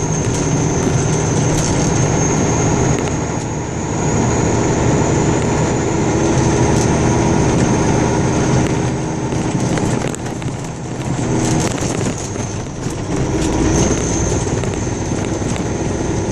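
A car driving along a road, heard from inside the cabin: steady engine hum and tyre noise on the road surface, with a few light clicks or rattles about two-thirds of the way through.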